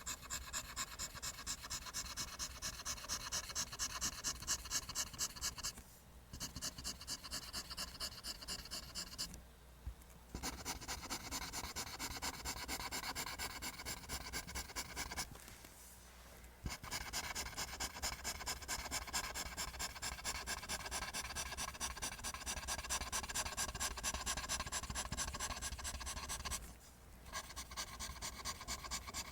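Pencil scratching across paper while drawing lines, in a fast run of repeated strokes. It stops briefly about four times.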